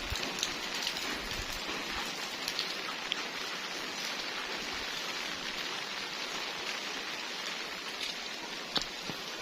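Heavy rain falling steadily, a dense even hiss of rain on surfaces, with a few sharp taps of single drops.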